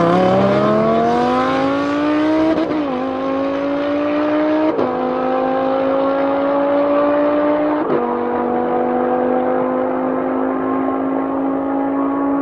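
Mercedes-AMG GT S's twin-turbo V8 with an ASG exhaust accelerating hard. The engine note climbs in pitch and drops sharply at three upshifts, about two and a half, five and eight seconds in, then keeps pulling in the higher gear.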